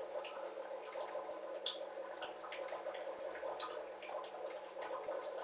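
Young cockatiels pecking and tearing at spinach leaves: many small, irregular wet clicks and taps, with short high chirps scattered through.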